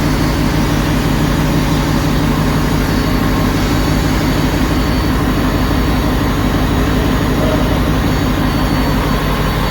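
Loud, steady drone of ship's engine-room machinery running, a constant low hum with no breaks or changes.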